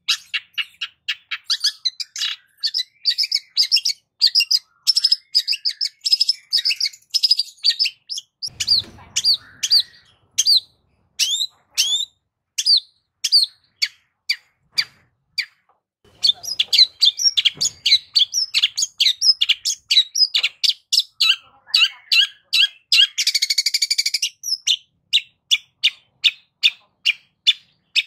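Long-tailed shrike singing a fast, varied run of sharp chirps and chattering notes. The song breaks off for about two seconds midway and has a harsh buzzing burst near the end.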